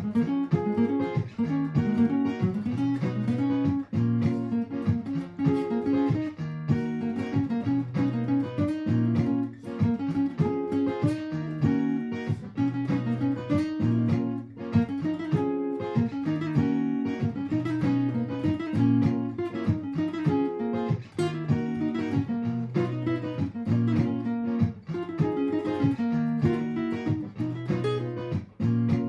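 Martin GPCPA4 acoustic-electric guitar played through a looper: picked and strummed notes over a repeating looped guitar part.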